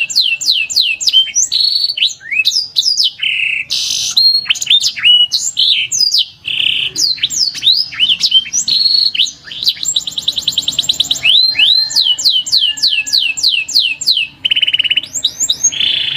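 Domestic canary singing a long, loud song. It moves through runs of rapid, repeated downward-sweeping whistled notes, broken by short buzzy notes, with a fast rattling trill about ten seconds in.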